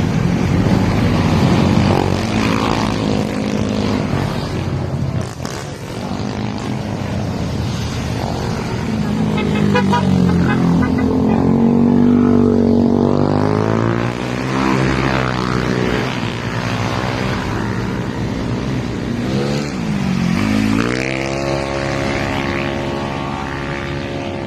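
Motorcycle engine running at road speed, its pitch climbing and falling as it accelerates and eases off, then dipping and climbing again near the end.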